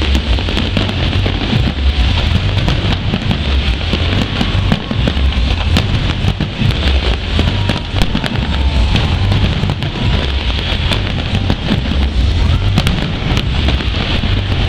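Fireworks display: a dense run of sharp bangs and crackles over a continuous low booming rumble.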